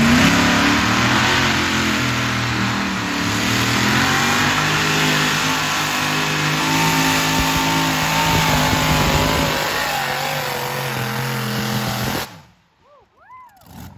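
Tractor engine running hard under load, with a steady deep drone that wavers slightly in pitch and cuts off suddenly near the end.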